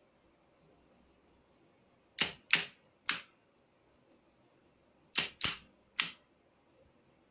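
Sharp clicks in two groups of three, the second group about three seconds after the first.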